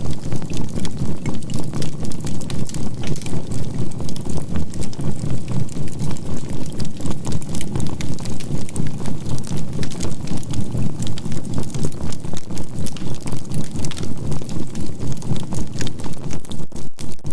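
Campfire crackling over a steady low tone that pulses evenly about three to four times a second: a 528 Hz healing tone mixed with binaural beats.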